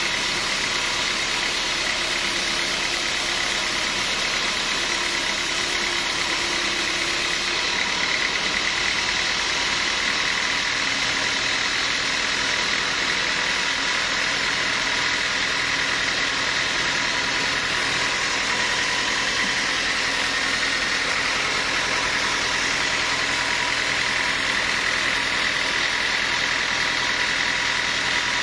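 Sawmill machinery running with a steady, even mechanical drone that does not change.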